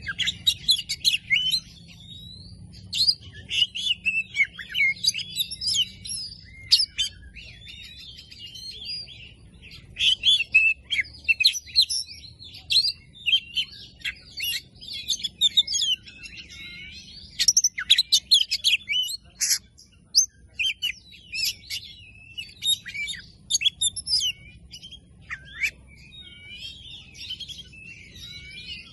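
Oriental magpie-robin singing a fast, varied song of sliding whistles and chirps with short pauses: the kind of song played as a lure to set a silent magpie-robin singing.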